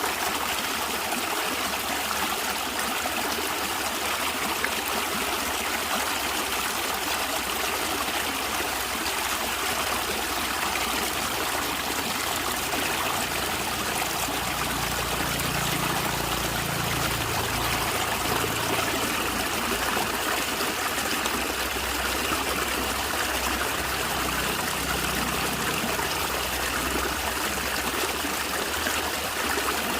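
Natural stream of running water gurgling and trickling steadily, with a low rumble swelling twice in the middle.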